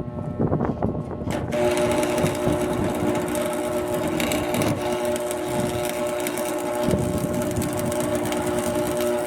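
Electric arc welding on a steel garage door: the arc strikes about a second and a half in and then crackles and hisses steadily over a constant electrical buzz.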